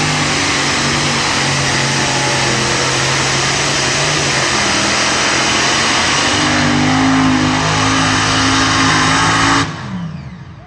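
Truck or tractor engine running flat out under load during a pull, loud and steady, its note rising a little over the last few seconds. Near the end the sound cuts back sharply and the engine note falls away as the throttle drops.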